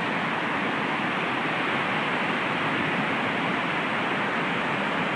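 Dynjandi waterfall's falling water: a steady, unbroken rush.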